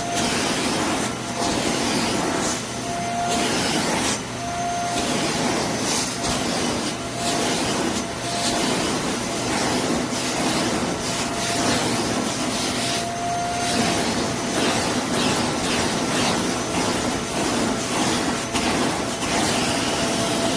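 Bissell Zing bagless canister vacuum cleaner running with a steady rush of suction. A thin whistle comes and goes, and the sound swells and dips every second or so.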